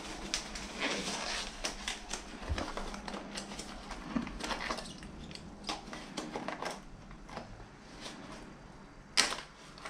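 Irregular clicks, taps and rustling of small items being handled, with one louder sharp click about nine seconds in.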